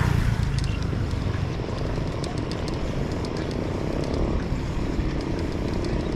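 Steady rumble and road noise of a moving vehicle, with faint scattered ticks over it.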